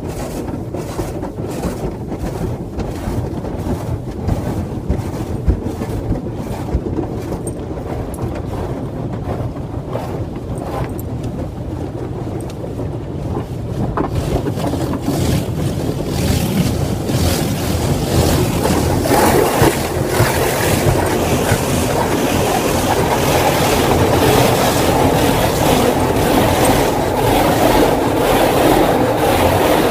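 Automatic car wash heard from inside the car. At first there is a regular pulsing swish about twice a second. From about halfway through it gives way to a louder, steady rush of water spray against the car body.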